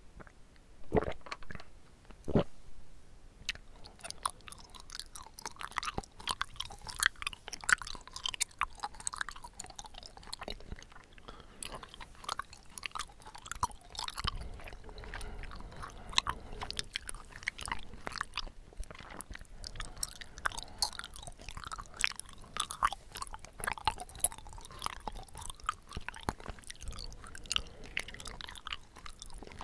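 A person chewing bubble tea tapioca pearls close to the microphone: continuous wet, squishy mouth clicks and smacks.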